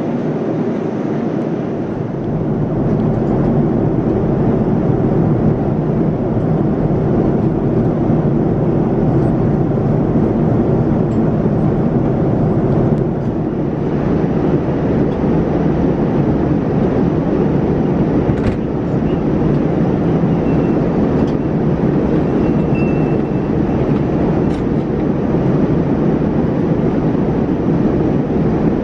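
Steady cabin noise of a Boeing 787-9 airliner in flight: a continuous low rushing of airflow and engines, with a couple of faint clicks.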